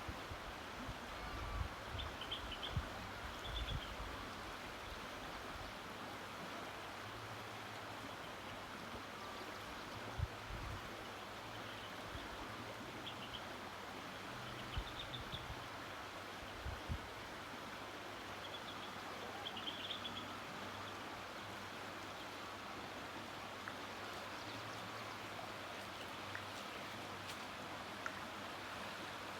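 River water flowing steadily, with short high bird chirps now and then. A few brief low thumps sound on the microphone.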